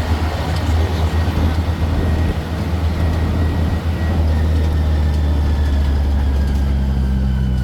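City tour road train's engine running steadily, heard from on board, as a low rumble over road noise. The rumble grows a little stronger about halfway through.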